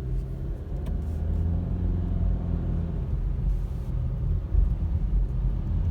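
Car engine running with a steady low road rumble, heard from inside the cabin while driving.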